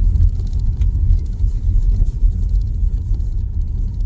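Low, steady rumble of a Tesla Model Y's tyres rolling over a snow-covered, uneven road, heard inside the electric SUV's cabin, with no engine note.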